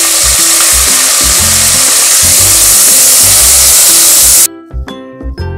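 Chopped tomatoes frying in hot oil with lightly browned onions, a loud, steady sizzle that cuts off suddenly about four and a half seconds in. Background music with a plucked melody and bass notes runs under it and is left alone at the end.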